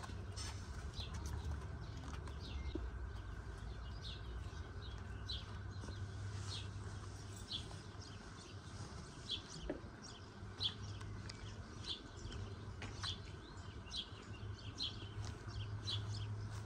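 Birds chirping: many short, high chirps at an irregular pace, over a steady low hum.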